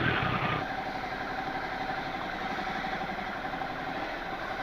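Motorcycle engine idling steadily while the bike waits in stationary traffic.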